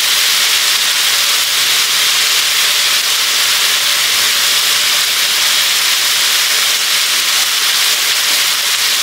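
Blended dried-chilli paste frying and bubbling in oil in a wok, a steady sizzle. The oil has begun to separate from the paste, the sign that the chilli is nearly cooked through.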